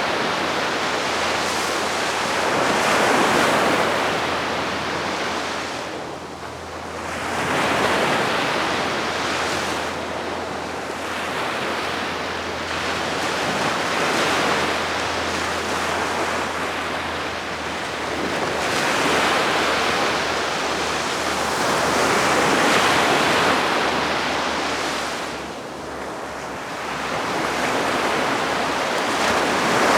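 Gentle sea waves washing onto the shore, swelling and easing every few seconds.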